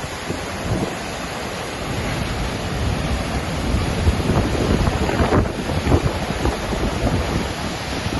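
Waterfall: a steady rush of falling water, with wind buffeting the microphone in low gusts, strongest about five to six seconds in.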